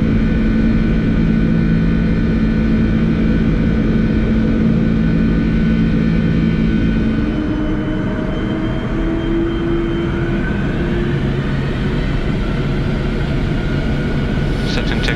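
Boeing 747-400 jet engines running at takeoff thrust during the climb-out, a loud steady noise with steady whining tones. About halfway through the tones change and a slowly rising whine comes in.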